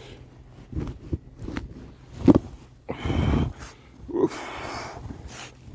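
A man breathing hard with loud huffing breaths while floundering through thigh-deep snow, with dull thuds and crunches of his legs and boots in the drift between breaths. The loudest huff comes a little over two seconds in, and a longer breath follows about a second later.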